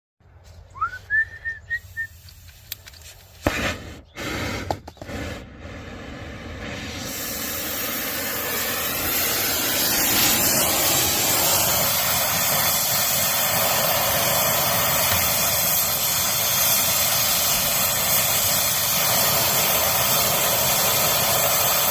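A few clicks and knocks, then about seven seconds in a brazing torch flame starts hissing. It grows louder and holds a steady, loud hiss while the line joint is heated.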